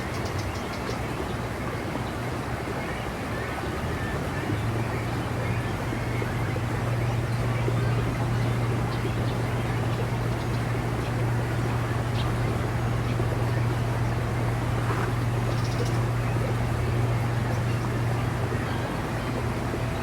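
Steady outdoor background noise with a low hum that grows stronger about four seconds in and then holds steady, with a few faint high chirps.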